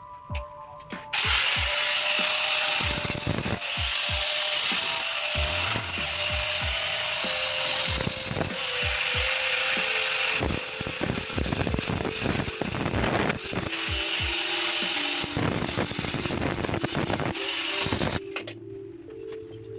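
A power tool running in one long stretch, with a rapid clicking rattle, starting about a second in and cutting off near the end, over background music.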